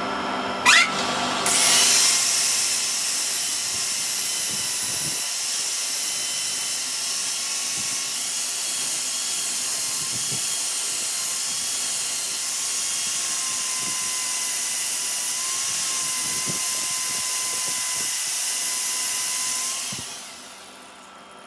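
A high-speed power tool spins up with a rising whine, then runs steadily with a loud hiss for about eighteen seconds before stopping near the end.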